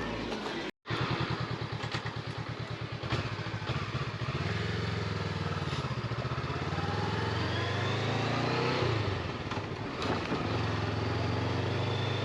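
Motorcycle engine running, pulling away and accelerating, its pitch rising and dropping back with gear changes. A brief dropout to silence about a second in.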